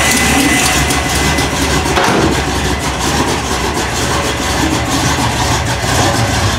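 Chrysler small-block 360 V8 idling steadily while it warms up after a cold start.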